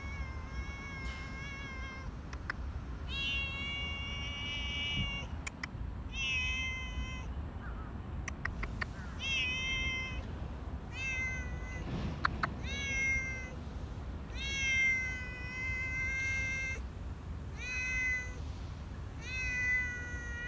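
A cat meowing over and over, about nine drawn-out meows of around a second each, one every two seconds or so, with a steady low rumble underneath.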